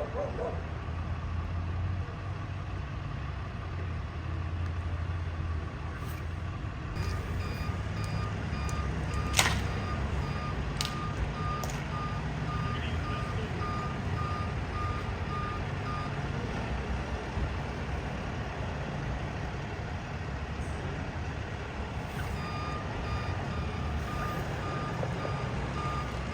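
A vehicle's reversing alarm beeping at a steady rate over a running engine. The alarm starts about a quarter of the way in, stops after about nine seconds, and starts again near the end. A sharp clank comes about nine seconds in, with two lighter knocks soon after.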